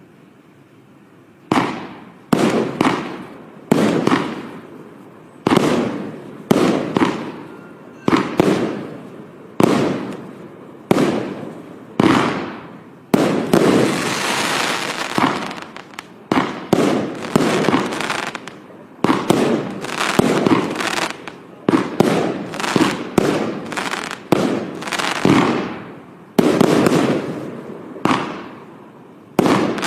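Enigma multi-shot firework by Jonathans Fireworks firing a long series of loud bangs, each one echoing away, starting about a second and a half in. About halfway the shots run together into a few seconds of continuous crackle, and the firing quickens toward the end.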